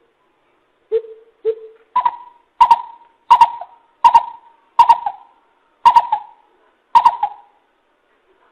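Greater coucal (bìm bịp) calling: a series of hollow hoots. The first few are deeper, then come about eight higher notes spaced evenly, roughly one every 0.7 seconds.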